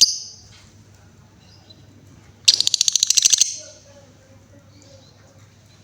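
Female Paskun lovebird calling. A sharp high chirp comes right at the start, and a little over two seconds later a rapid run of high chattering notes, about fifteen a second, lasts about a second: the continuous trill that lovebird keepers call ngekek.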